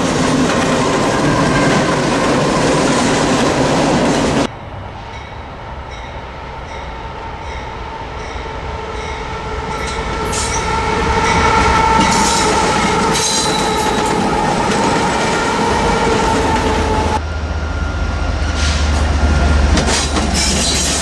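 Diesel-hauled freight train passing close, with loud wheel-and-rail noise, cut off abruptly about four seconds in. Then a second freight train led by diesel locomotives approaches, a steady whine growing louder, and in the last few seconds the locomotives pass close with a deep engine rumble.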